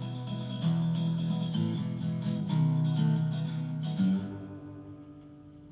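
Guitar playing the closing chords of a song, with a final chord struck about four seconds in and left to ring out and fade.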